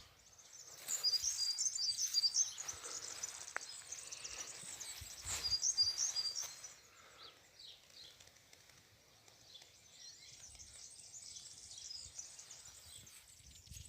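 A flock of small birds chirping together, with two loud bursts of rapid high chirps, one about a second in and another about five seconds in, then softer, steady chatter.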